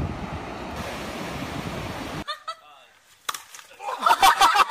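Steady noise of surf and wind on the microphone for about two seconds, then a sudden cut. Near the end a burst of rapid laughter starts, about five laughs a second.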